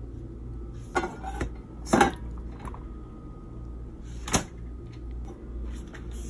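Kitchen pot and utensils clattering: a few separate knocks and clinks, the loudest about two seconds in, over a steady low hum.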